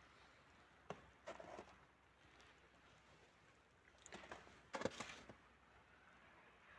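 Near silence broken by a few short knocks and taps: one about a second in, a couple just after, and a louder cluster about four to five seconds in.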